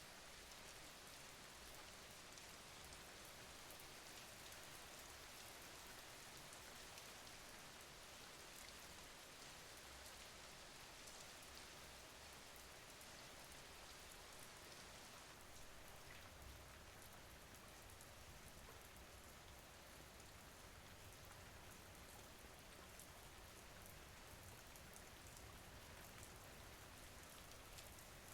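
Steady, quiet rain falling, with fine patter of drops on a surface.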